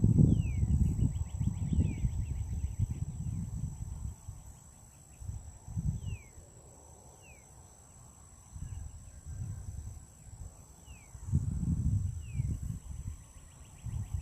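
Outdoor dawn ambience: bird calls as short downward-slurred whistles repeated every second or two, with a faint buzzy trill. Low rumbling noise on the microphone comes and goes in gusts, loudest at the start and again near the end.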